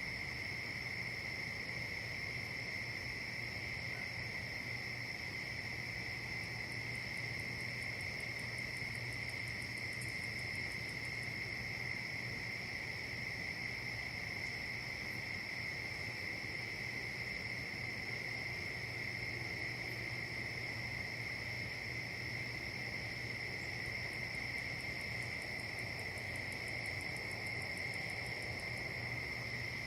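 A steady insect chorus, crickets trilling without a break as two high, even drones, one above the other. Faint rapid high ticking comes in twice, about a quarter of the way in and again near the end.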